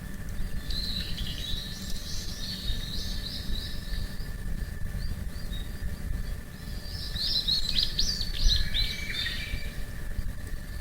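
A wild songbird singing two long runs of quick, high chittering notes, the second run louder, over a steady low rumble.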